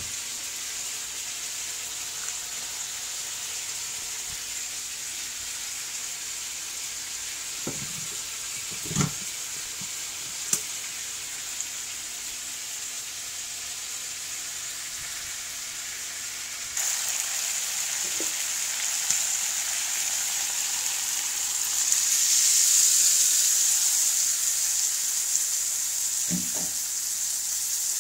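Chicken adobo sizzling in a wok over a gas burner, a steady frying hiss that gets clearly louder about two-thirds of the way through. A few light knocks come in the first half.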